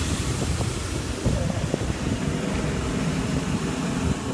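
Steady low rumble of a Sydney Trains K-set electric train at the platform, with wind on the microphone.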